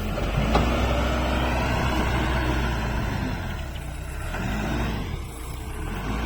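Backhoe loader's diesel engine running under working load, its pitch and level dipping briefly past the middle before picking up again.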